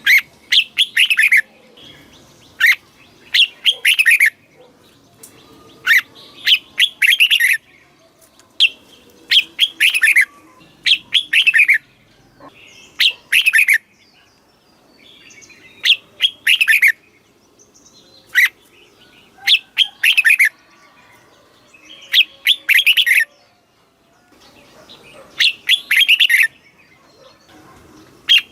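Red-whiskered bulbul singing: a dozen or so short whistled phrases, each about a second long, repeated every two to three seconds with brief pauses between.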